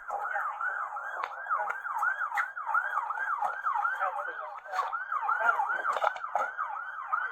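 Police car siren in fast yelp mode, sweeping up and down about three times a second, with a few scattered clicks.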